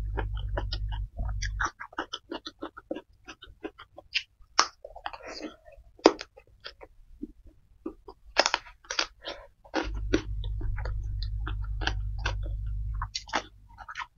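Close-miked wet chewing and lip smacking: many short, sharp clicks as a mouthful of rice and young jengkol is eaten by hand. A low steady hum sounds at the start and comes back for a few seconds near the end.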